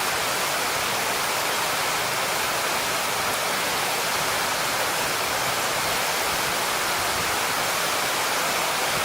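A steady, even rushing hiss like heavy rain or running water, with little low rumble, cut off abruptly at the end.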